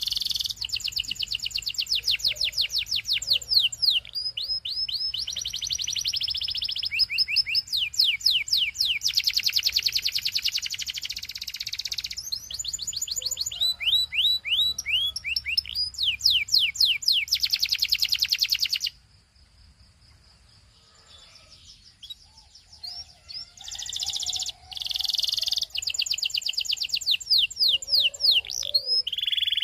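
Belgian canary singing: long rolling trills of rapidly repeated falling notes, changing from one trill to the next. The song breaks off about two-thirds of the way through for a few seconds, then starts again.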